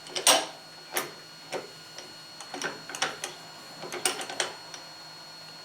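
Irregular clicks and clinks of metal tools and parts being handled, about a dozen, the loudest just after the start, over a faint steady hum.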